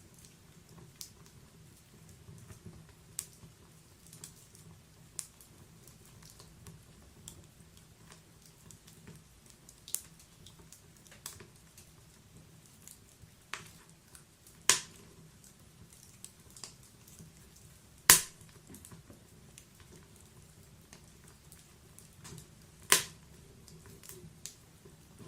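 Wood logs burning in a fireplace: irregular small crackles over a low, steady flame rumble, with three loud sharp pops in the second half, the loudest about three-quarters through.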